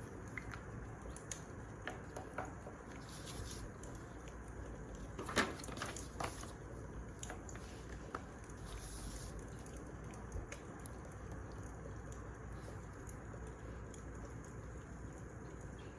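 Wood fire crackling: a steady low hiss with scattered small pops, the loudest pop about five seconds in.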